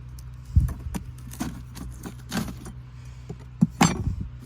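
Knocks, clicks and scrapes of wooden hive frames being worked loose and pulled from a swarm trap box, with sharp knocks about half a second in and near the end, over a steady low hum.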